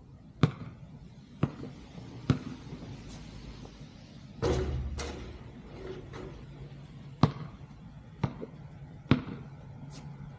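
Basketball bouncing on hard ground, three bounces about a second apart. Near the middle there is a longer, louder impact, then three more bounces at the same pace.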